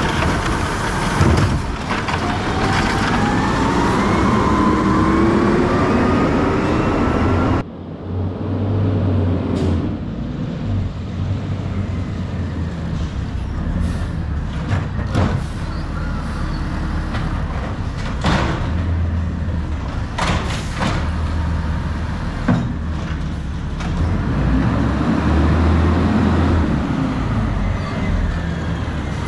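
Garbage truck at work: the engine revs with a whine rising in pitch, then after an abrupt cut a diesel engine runs low and steady, broken by several sharp bangs and hisses. Near the end the engine revs up and settles again.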